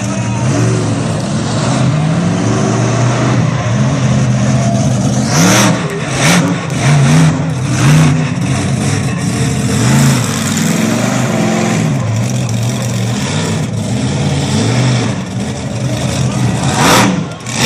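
Monster truck engine revving up and down over and over, with several sharp crashing impacts clustered near the middle and another near the end.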